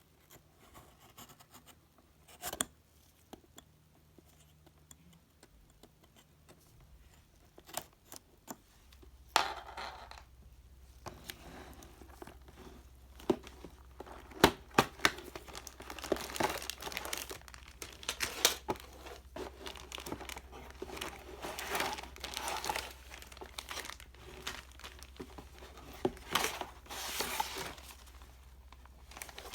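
A plastic model kit's cardboard box being opened and its contents handled: scattered taps and knocks at first, then, from about ten seconds in, continual crinkling and rustling of plastic bags with frequent clicks.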